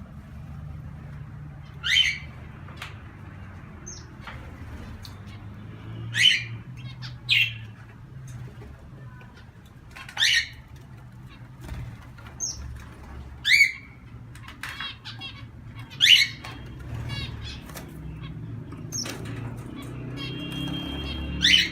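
Caged pet birds calling: about seven loud, sharp squawk-like calls every two to four seconds over softer chirps and a couple of short rapid trills, with a steady low rumble of background noise.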